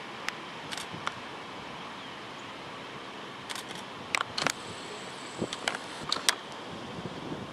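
Steady background hiss with about a dozen short, sharp clicks and taps scattered through it, most of them from about halfway in.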